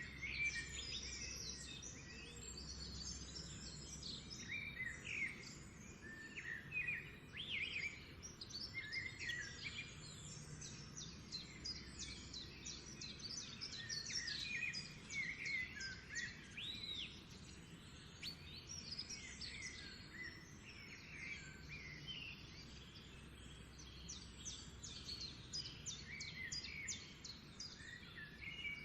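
Several songbirds singing together: many overlapping quick chirps, rising whistles and trills, with a faint steady low hum underneath.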